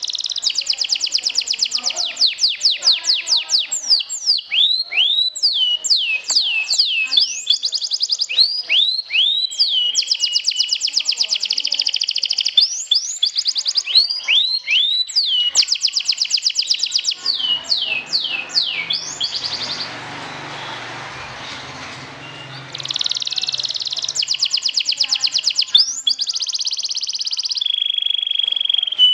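Domestic canary singing a long song of rapid trills and repeated high whistles that sweep steeply downward. A few seconds past the middle the song stops briefly and only a hiss remains, then the trills resume, ending on a held steady whistle.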